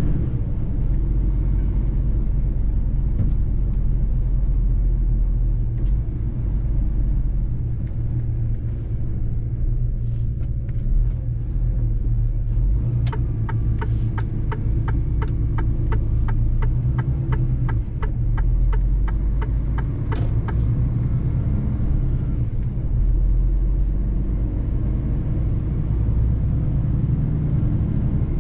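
Mercedes-Benz truck driving, a steady low engine and road rumble. For several seconds midway a regular ticking runs over it, about three ticks a second, then stops.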